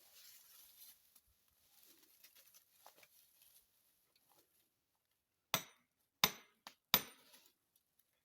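Hammer driving a felling wedge into the saw cut of a hung-up red oak: three sharp blows about two-thirds of a second apart, each with a short ringing, after a few seconds of faint rustling.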